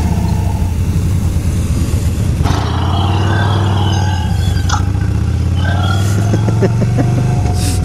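Motorcycle engine idling steadily at a stop, its note shifting near the end, while the learner's stalled Kawasaki Ninja 300 is restarted.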